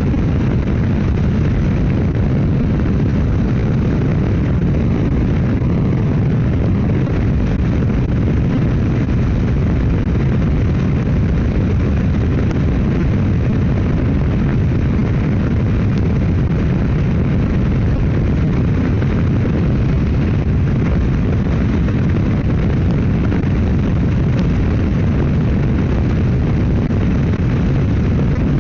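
Steady wind rush on the microphone of a motorcycle cruising at highway speed, with the bike's engine and road noise beneath it.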